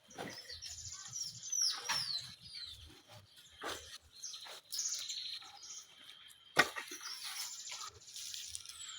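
Birds chirping outdoors, with quick high downward-sweeping calls and fast buzzy trills, and a thin steady high tone through the second half. A single sharp knock about six and a half seconds in.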